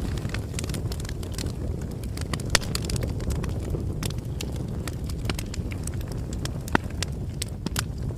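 Wood bonfire crackling: a steady low rumble of burning with irregular sharp pops and snaps, the loudest pop about two and a half seconds in.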